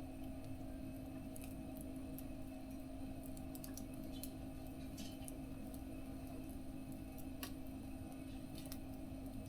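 Wood fire crackling in a small mesh fire stove, with irregular sharp pops scattered through it over a steady low hum.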